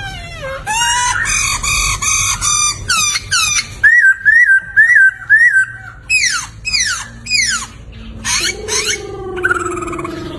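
Laughingthrush (poksay) singing a loud, varied whistled song. About four seconds in comes a run of four repeated notes, then a series of quick falling slurs, with a lower drawn-out note near the end, all over a faint low hum.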